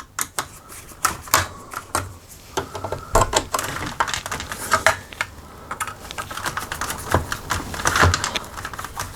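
Irregular small clicks and scrapes of a screw being fitted into a laminator's housing.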